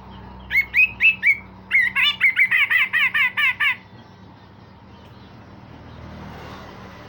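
Cucak jenggot, a bulbul, singing loud whistled notes: four separate notes, then a fast run of about a dozen repeated notes, roughly six a second, that stops about halfway through.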